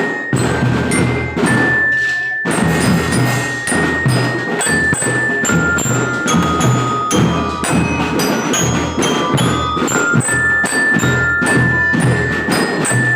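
Children's drum band playing a march tune. Drums keep a steady beat under a high, bell-like melody of held and stepping notes.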